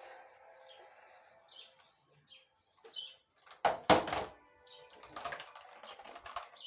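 Soft held background music fading out over small birds chirping in short repeated calls, then a loud thump just before four seconds in, followed by quieter scuffing noises.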